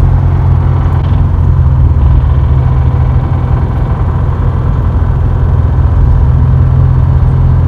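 Subaru WRX's turbocharged flat-four engine running with a fast, even knocking inside it: rod knock, the sign of a failed connecting-rod bearing, and the engine is blown.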